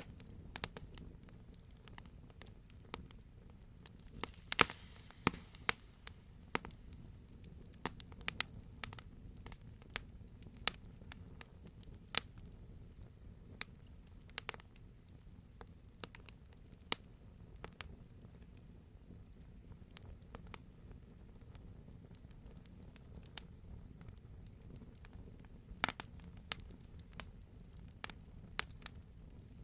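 Campfire crackling, with irregular sharp pops and snaps from the burning wood over a soft steady low rumble of the flames.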